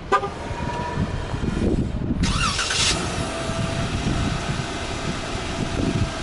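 2014 Jeep Wrangler being remote-started: a brief horn toot, then about two seconds later the starter cranks, the engine catches, and it settles into a steady idle.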